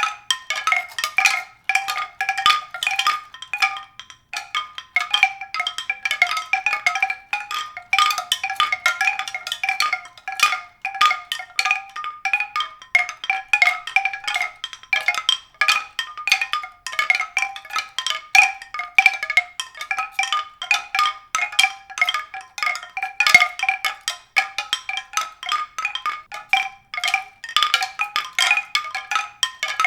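Continuous rapid striking of a few ringing, pitched notes, like mallet percussion, with several strikes a second and no pause.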